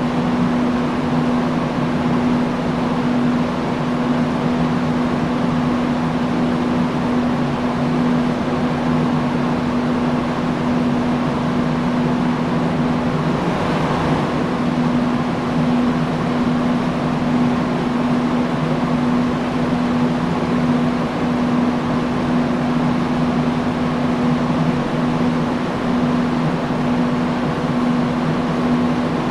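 Industrial fan running steadily: an even rush of moving air with a steady low motor hum.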